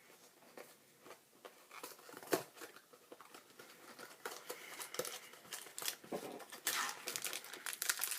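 A Pocky snack package being torn open and crinkled by hand: scattered crackles and snaps that grow denser and louder about six and a half seconds in.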